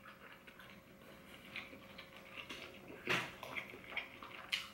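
Mouth sounds of chewing a mouthful of tender braised beef short rib: soft wet clicks and lip smacks. About three seconds in, and again near the end, a fork clatters against the serving bowl as he scoops more food.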